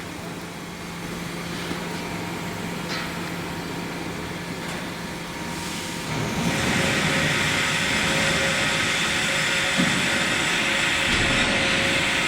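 Induction melting furnace running with a steady machine hum and noise. About six seconds in it gets louder, with a strong hiss and a steady higher hum.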